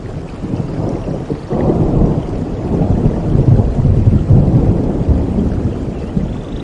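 Thunder rumbling over steady rain. A deep rumble swells about a second and a half in and rolls on through the rest.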